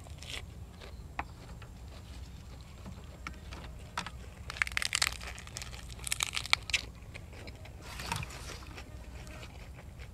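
A person chewing food, in three short bursts of crisp clicks: two about halfway through and a shorter one near the end.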